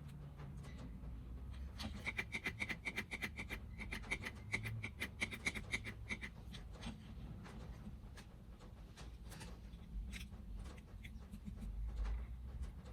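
Hand work on a gramophone's motor board: rubbing and scratching, broken by a fast run of sharp, ringing clicks, about ten a second, lasting about four seconds from two seconds in, then scattered clicks.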